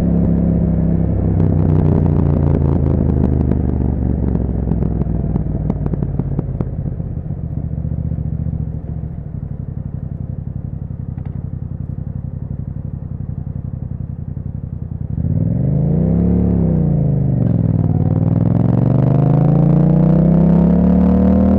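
Yamaha MT-07's 689 cc parallel-twin engine through an aftermarket Akrapovič exhaust. It slows off the throttle with a scatter of short crackles, idles steadily for several seconds, then revs up about fifteen seconds in, dips briefly and climbs again as the bike pulls away.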